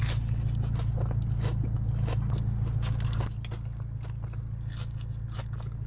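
A person biting and chewing crispy fried food, with irregular crunchy clicks, over a steady low hum that drops slightly about three seconds in.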